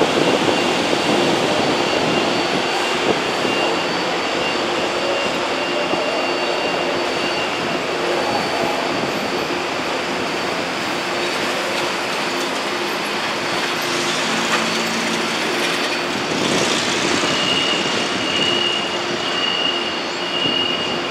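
Electric passenger train running at a station: a steady rush of wheels and running gear with a constant high whine. Over the last few seconds a high beep repeats about once a second.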